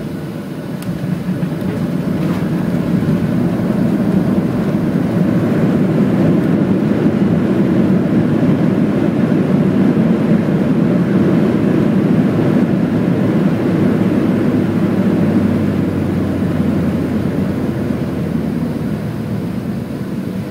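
Boeing 737-700's CFM56 jet engines heard inside the cabin, the roar swelling about two seconds in, holding, then easing off near the end: reverse thrust braking during the landing rollout.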